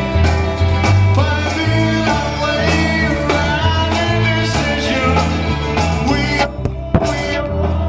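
Live rock band playing an instrumental passage, with a pulsing bass line under drums and guitars. Near the end the cymbals and higher instruments drop out for a moment before the band comes back in.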